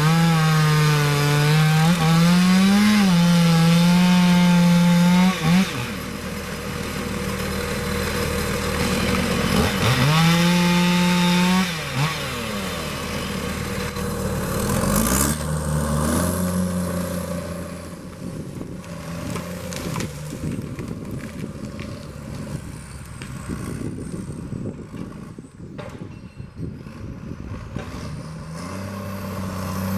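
Chainsaw running at high revs, its pitch wavering up and down, for about five seconds and again for a couple of seconds around the middle. In the second half a lower, quieter engine runs steadily.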